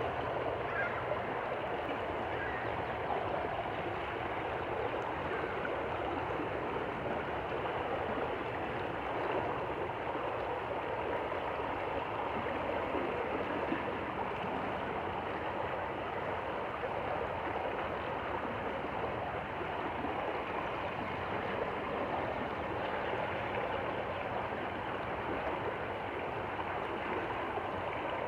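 A stream flowing, a steady, even rush of water.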